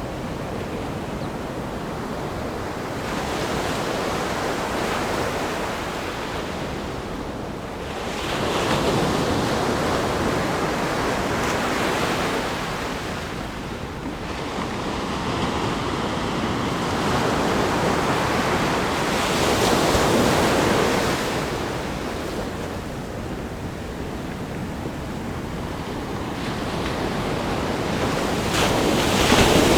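Ocean surf breaking against a rock groin, a steady rushing wash that swells with each wave several times and grows loudest near the end.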